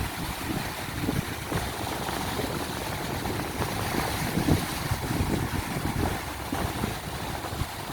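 Strong wind buffeting the microphone in irregular low gusts over the steady hiss of ocean surf.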